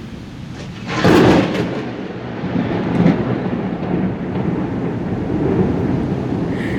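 Thunderclap: a sharp crack about a second in, followed by a long rolling rumble, over steady heavy rain.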